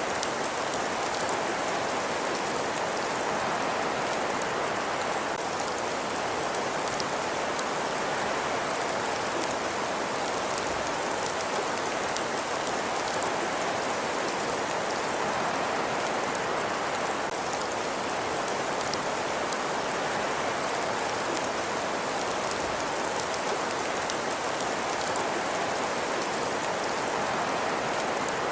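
Fireplace crackling: a steady hiss with fine, scattered crackles and no change in level.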